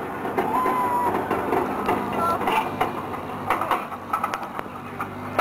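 A drift car's engine running at low revs with a steady low hum and scattered mechanical clatter, heard across the open track.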